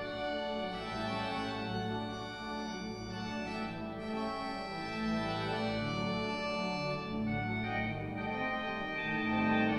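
Pipe organ playing sustained chords over a deep bass line, the chords changing every second or so.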